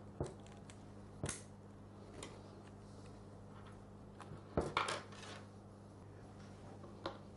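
Small metal and plastic parts clicking and knocking as the remaining carbon brush holder is worked out of a Bosch GSH 5 demolition hammer: a few separate clicks, with a short cluster of louder ones about halfway through, over a faint steady hum.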